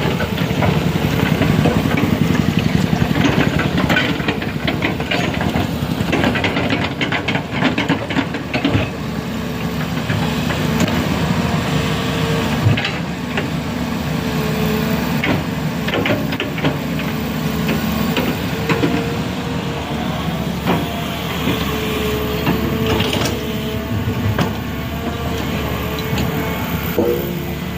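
Heavy vehicle's engine running steadily, with scattered clicks and clanks.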